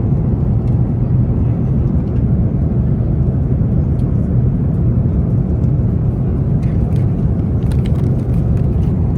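Steady low rumble of an Airbus A350-900's cabin in flight, airflow and engine noise heard from an economy seat. A few faint clicks sit on top of it.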